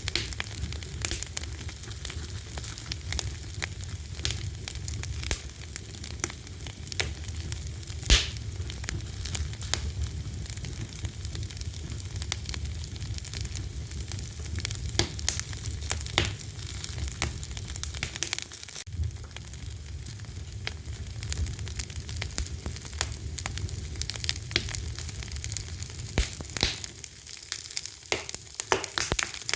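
Wood fire crackling, with frequent irregular pops and snaps over a steady hiss and a low rumble. One louder pop comes about eight seconds in.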